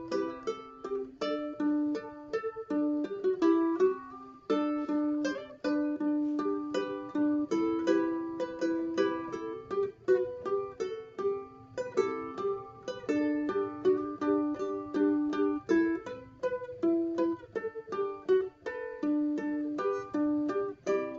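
Solo ukulele playing a melody in quick plucked notes over chords, each note ringing briefly.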